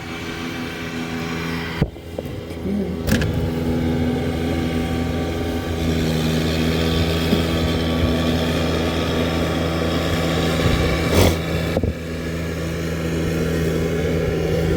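Snow plow truck's engine running steadily as it works the street, with a few sharp clicks or knocks along the way.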